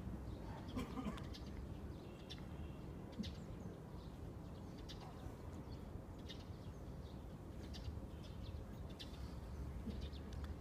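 Scattered short bird chirps over a steady low background rumble, quiet overall.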